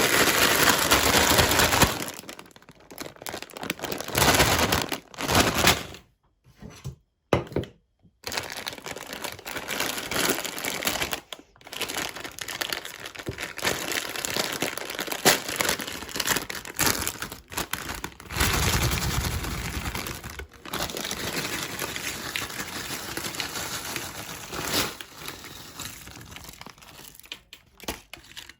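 Ruffles potato chips crackling and breaking as they are crushed in a meat grinder, in irregular bursts with a few short pauses.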